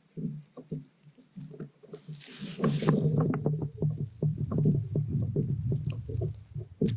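Knocks and rumbles of movement and gear handling in a plastic fishing kayak, with a brief hiss about two seconds in. The knocking gets busier from then on, and there is a sharp knock near the end.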